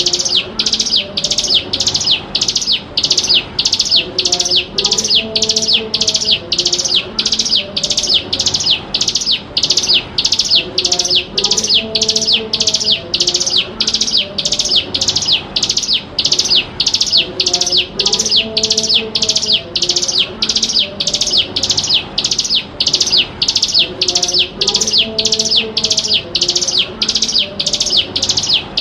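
A ciblek gunung, a mountain prinia, calling in a fast, unbroken series of high sharp notes, about two a second, played as a lure track for training young birds.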